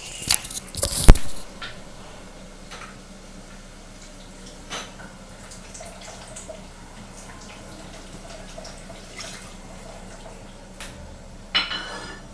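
Onion-and-spice masala frying faintly in an aluminium pot, with scattered small pops. There is a loud clank about a second in, and near the end a sudden hiss as a little water goes into the hot masala.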